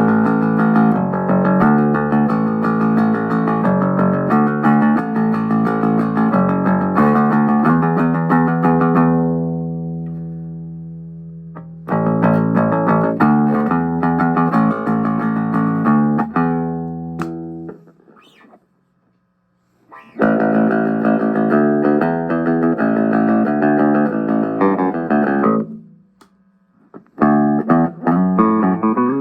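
Danelectro '63 electric bass being played: three runs of plucked notes with short pauses between them. In the first run a note is left to ring out and slowly fade.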